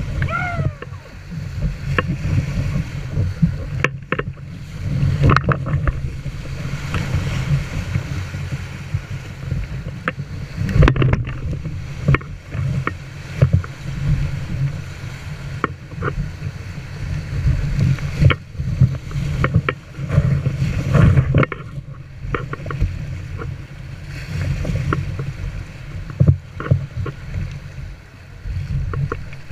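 Kayak on a river: rushing, splashing water against the boat, with irregular sharp splashes. A heavy low rumble sits on the microphone throughout.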